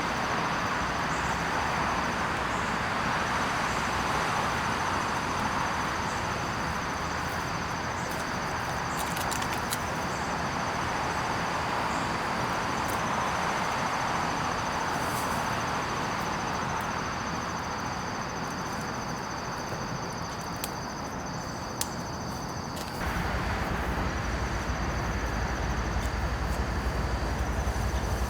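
Insects trilling steadily at two high pitches, breaking off and resuming, over a constant background rumble. About five seconds before the end a deeper low rumble starts abruptly.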